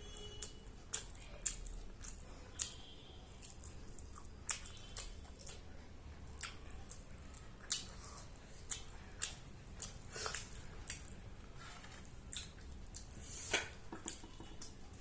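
A person chewing food close to the microphone: wet mouth smacks and sharp clicks, irregular and several a second at times.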